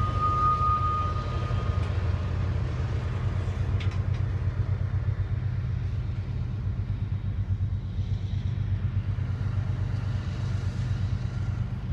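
A train rolling past on nearby tracks: a steady low rumble, with a thin high squeal for the first couple of seconds.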